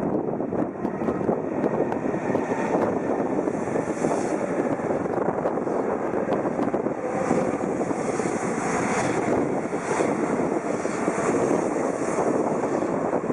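Shinkansen bullet train running alongside the platform: a loud, steady rush of wheel, motor and air noise.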